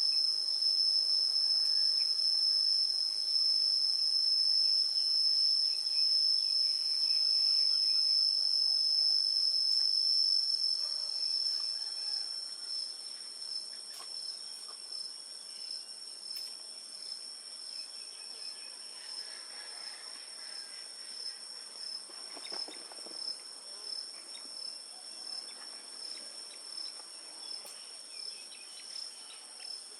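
Steady high-pitched insect chorus, a continuous trill like crickets, that drops in level about eleven seconds in.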